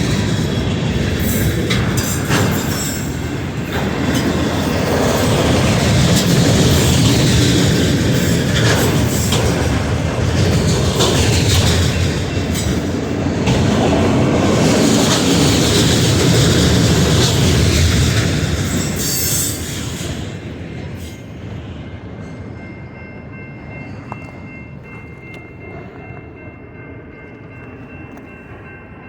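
Union Pacific freight train's cars rolling past on the rails, loud and steady for about twenty seconds, then dying away as the train draws off.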